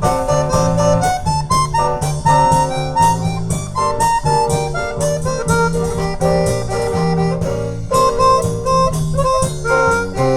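Harmonica playing a melodic solo line over plucked acoustic guitar accompaniment.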